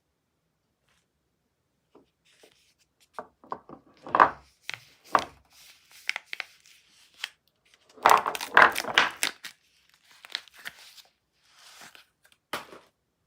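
Wrapping of a bar of soap being torn open and crinkled by hand: a run of short crackling tears starting about two seconds in, busiest about eight to nine and a half seconds in, with a sharp one near the end.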